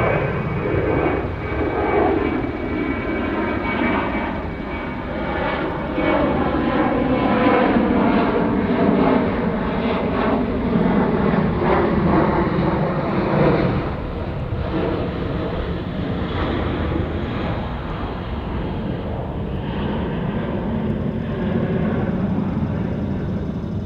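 Jet airliner's engines at takeoff power on departure: a steady roar with whining tones that slowly fall in pitch as the aircraft passes.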